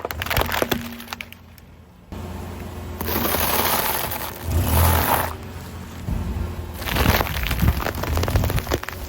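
Objects cracking and snapping as they are crushed under a car tyre, in quick runs of sharp crackles. A stretch of steady hiss falls in the middle.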